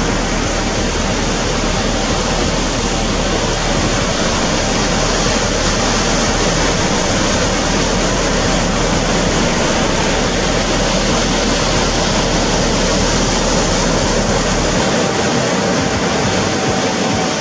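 Steady rush of surf and wind on the microphone at the shore, with a faint steady whine underneath that drops slightly in pitch near the end.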